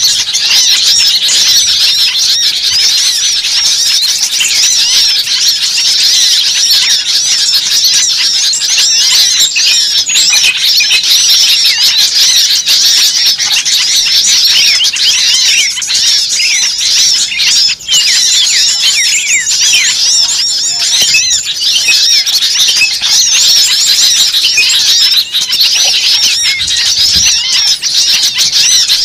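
Loud, dense chorus of high-pitched chirps and squeaks from many small birds, overlapping and repeating rapidly without pause, with one brief drop a little past halfway. It is a noisy, agitated small-bird mix used as a bird-lure (pikat) call.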